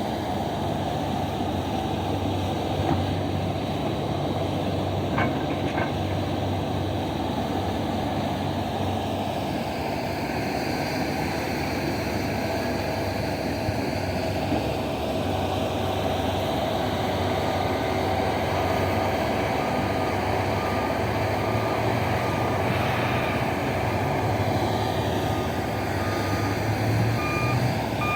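Diesel engines of heavy mining machinery running steadily, with a truck's reversing alarm beeping in an even rhythm from about halfway through, growing louder near the end.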